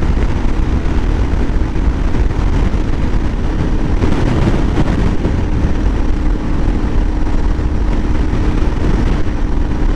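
Heavy wind rushing over the microphone at highway speed into a headwind, over the steady drone of a Suzuki DR650's single-cylinder engine. The engine holds an even note, running smoothly on its freshly rebuilt carburettor.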